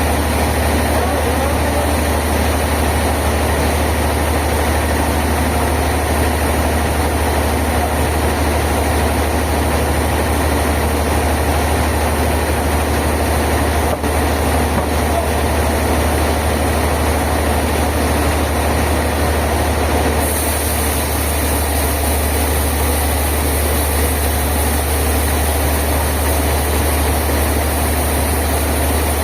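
A heavy engine running steadily with a constant deep hum, like machinery idling.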